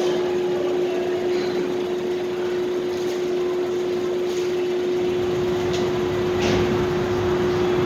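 Supermarket parking-lot ambience: a steady mechanical hum with one constant tone over a wash of background noise, with a few faint clicks and a brief swell of noise about six and a half seconds in.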